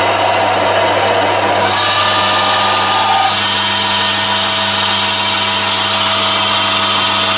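Chinese mini lathe running, its DC speed-controlled motor and gear train driving a light turning cut down a 12 mm shaft under power feed at a fast feed rate. A steady hum sits under a whine whose pitch shifts about two seconds in.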